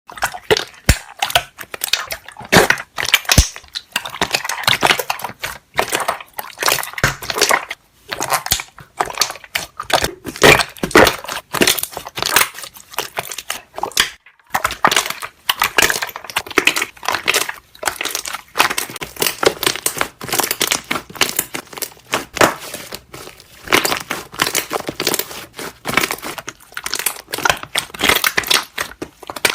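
Slime being pressed and squeezed by hand, popping its trapped air bubbles in a dense, uneven run of small crackling pops, with a brief break about fourteen seconds in.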